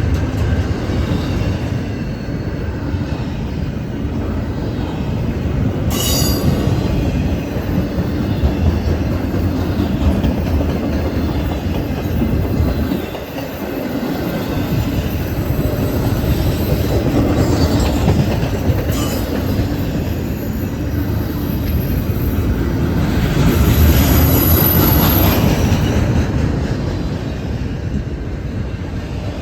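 Freight train cars rolling past, steel wheels rumbling and clacking on the rails, with brief high wheel squeals several times.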